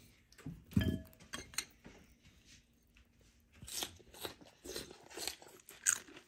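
Crunching and chewing of crisp deep-fried bluegill, in short irregular bursts.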